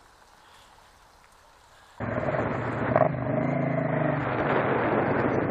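Quiet for about two seconds, then a motorcycle engine running, coming in suddenly and loudly, with a sharp knock about a second after it starts.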